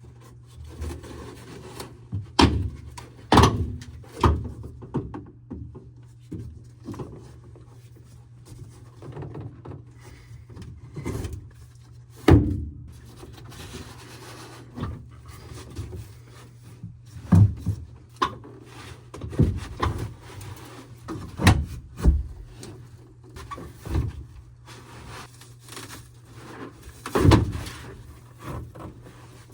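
Hand work on a car's interior trim: irregular knocks, thuds and scraping as panels and fittings are pried and pulled loose, over a steady low hum.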